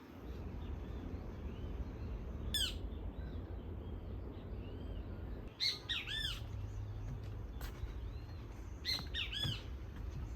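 Birds calling in short arched chirps, coming in three groups: one about two and a half seconds in, a quick run of several around six seconds, and another pair around nine seconds. Fainter calls sound between them, over a steady low rumble.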